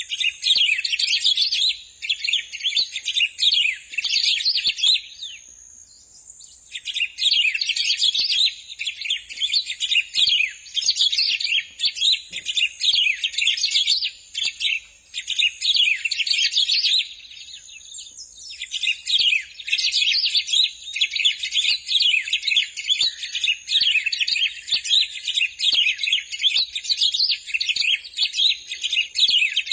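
Black-throated saltator (bico-de-pimenta) singing long bouts of rapid, varied, high-pitched chattering song, with two short pauses.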